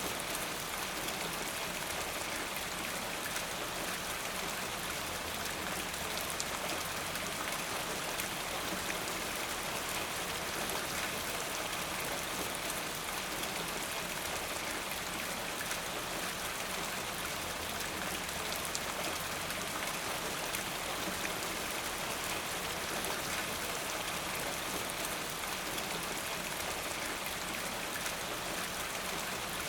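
Steady rain falling, a constant even hiss with close individual drops pattering on a surface.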